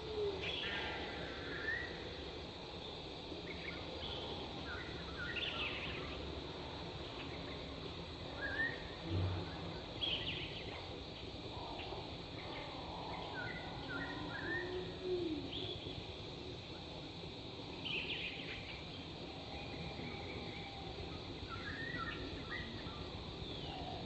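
Wild birds calling in forest: short chirps and whistled notes from several unseen birds every few seconds, with one low, short hooting call past the middle, over a steady background hiss.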